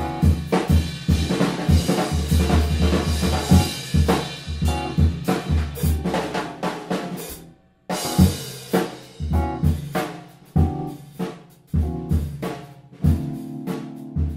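A live band plays a busy groove, with a drum kit to the fore: snare and rimshot hits over a bass drum. The music cuts out briefly a little past halfway, then resumes.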